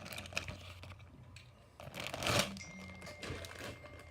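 Handling noise from die-cast toy cars being picked through: faint small clicks and light rustling, with one brief louder rustle about two seconds in.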